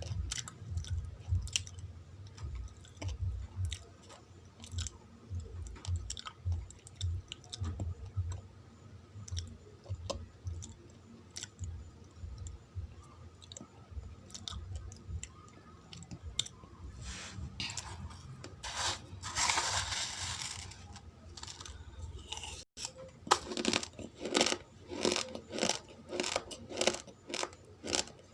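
Close-miked chewing of uncooked rice grains, a steady run of soft jaw strokes with small crunches. About two-thirds of the way through comes a rustling hiss lasting a couple of seconds; after a brief drop-out, louder, sharper crunching of the hard grains follows.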